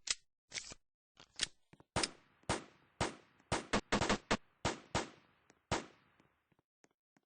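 A string of about fifteen sharp, irregular bangs over six seconds, some in quick pairs, each followed by a short echo.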